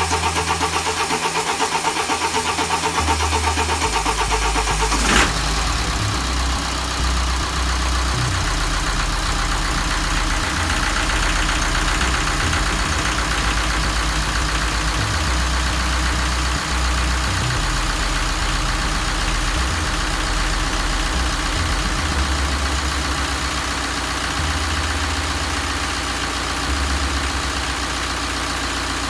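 BMW N47 four-cylinder diesel engine idling steadily just after its first start following engine service. There is one sharp click about five seconds in.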